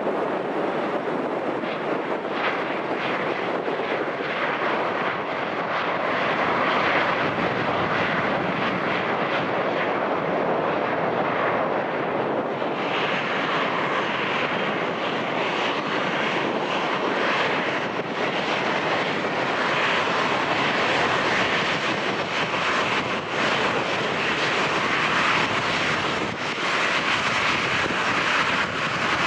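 Jet airliner engines running, a steady rushing roar that grows brighter and higher about a third of the way in, with wind buffeting the microphone.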